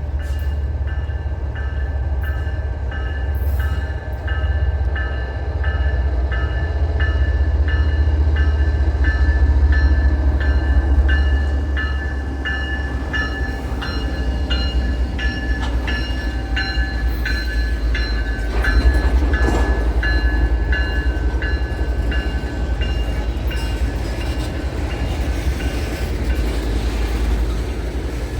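A train passing with a steady low rumble. For the first half a regular ringing tone sounds about twice a second, then fades out.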